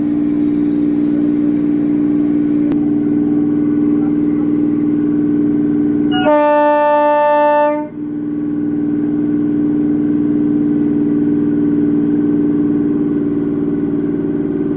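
Electric multiple unit local train running with a steady low hum, and its horn sounded once for about a second and a half midway.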